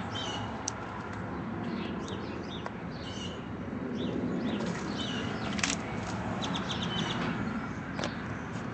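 Small birds chirping now and then over a steady low background noise, with a few faint clicks.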